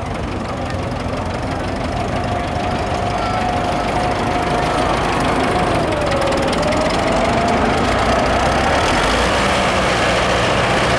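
Vintage farm tractor engines running during a parade, getting gradually louder.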